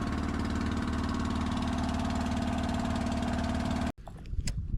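Longtail boat engine running steadily, then cutting off abruptly near the end, followed by a few faint knocks.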